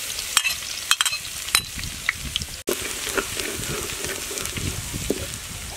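Chopped garlic sizzling in hot oil in a steel wok, a steady frying hiss, with several sharp clicks and crackles in the first second and a half. A metal ladle stirs and scrapes the garlic around the wok.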